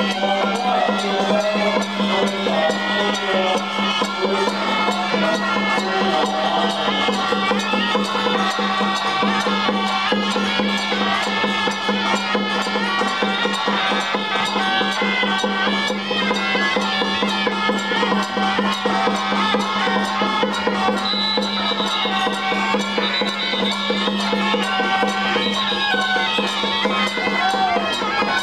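Traditional Taiwanese temple procession music: a reedy suona-style melody over a steady drone, with fast continuous drumming and cymbal beats.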